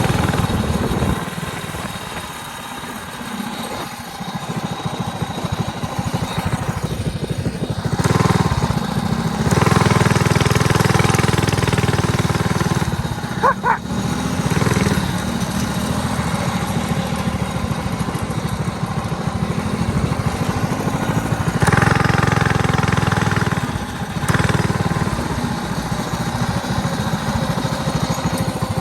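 Mini bike's small engine running as it is ridden, revving up and easing off several times, with a brief high chirp about fourteen seconds in.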